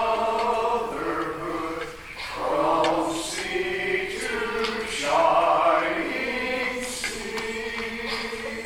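Church congregation singing a chorus together in long held notes, with short breaks between lines.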